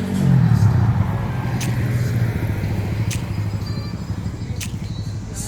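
A motor vehicle engine running with a low steady hum, its pitch dropping just after the start. Short sharp ticks come about every second and a half.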